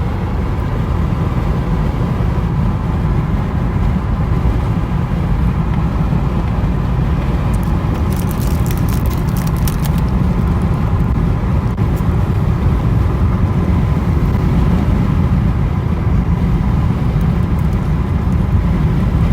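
Steady road and engine rumble of a car driving, heard from inside the cabin, with a brief cluster of light clicks about eight seconds in.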